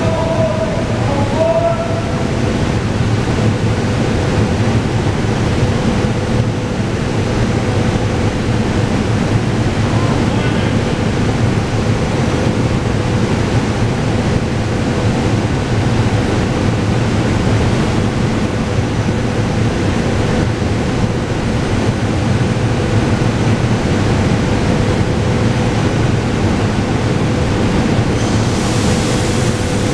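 Steady rumbling din in an underground rail station, with a SEPTA Regional Rail electric train standing at the platform and a constant hum running through it. A hiss rises near the end.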